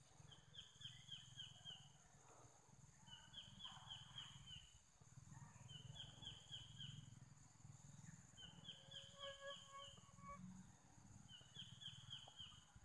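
Faint bird song: a short phrase of five or six quick downslurred high notes, repeated five times about every three seconds, over a low steady rumble.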